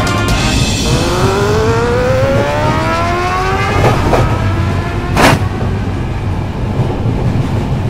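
Motorcycle engine revving up, its pitch rising steadily for about three seconds, over a steady low rumble. About five seconds in, a short sharp burst of noise cuts through.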